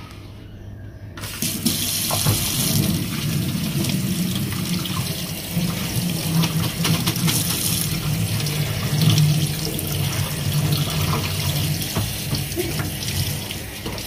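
Water running from a tap into a sink. It comes on about a second in and runs steadily.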